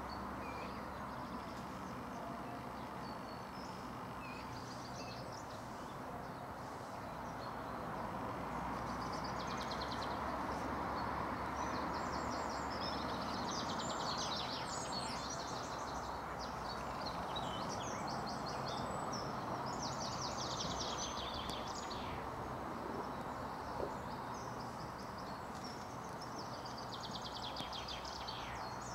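Small birds singing in rapid trills of repeated high notes, several songs overlapping through the middle, over a steady low background rush that grows a little louder after a few seconds.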